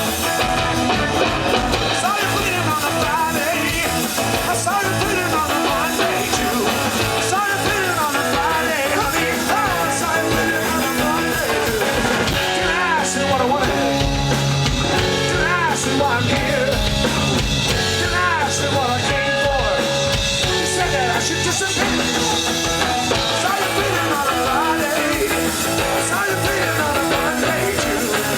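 Live punk rock band playing loud, with drum kit and amplified instruments.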